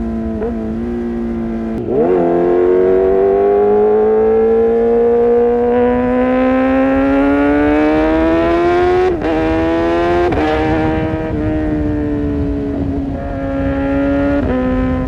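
Kawasaki ZX-6R inline-four through an Arrow Pro-Race exhaust under way. It holds a steady note, then climbs slowly in pitch for about seven seconds. Two quick upshifts drop the revs back to a steady cruise.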